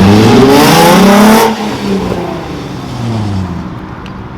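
Car engine revving hard, its pitch climbing for about a second and a half with a loud hiss on top, then dropping back and running on more quietly.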